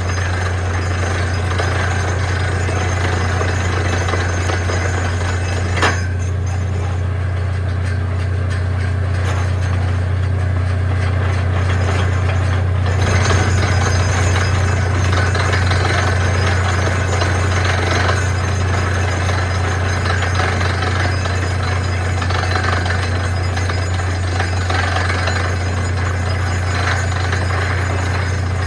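Truck-mounted borewell drilling rig running and drilling steadily, its engine a deep constant drone under the noise of the hammer and drill string. There is a single sharp knock about six seconds in.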